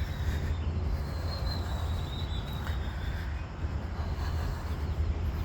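Steady low outdoor rumble picked up by a handheld phone on a walk, with a faint, thin high whistling tone through the first three seconds.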